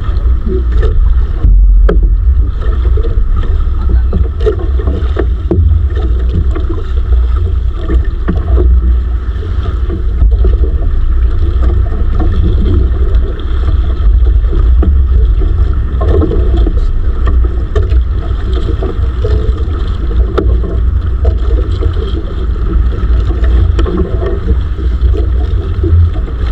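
Wind buffeting the microphone aboard a small outrigger fishing boat at sea, a loud, unsteady low rumble throughout, with the boat's own noise beneath it.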